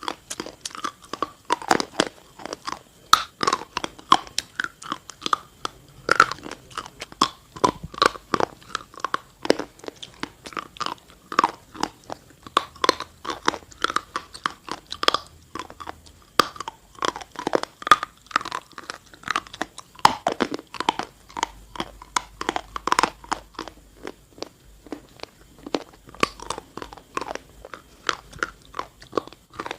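Close-miked biting and chewing of a dry, crunchy chalk-like substance: sharp crunches several times a second, with no pauses.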